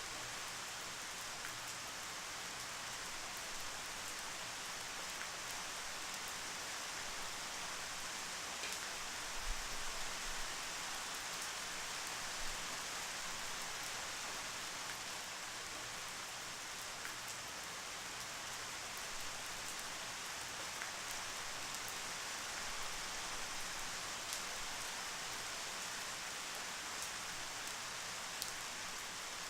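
Steady rain falling, an even hiss with scattered drop ticks and a few soft low thumps about ten seconds in.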